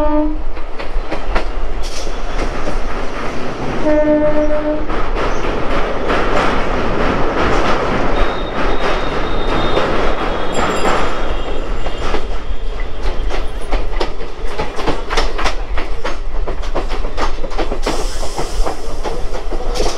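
Electric suburban local train (EMU) running along the track, its wheels clattering rhythmically over the rail joints, heard from alongside the coaches. The train's horn sounds briefly twice: once just at the start, and again about four seconds in. A thin high whine comes in around the middle.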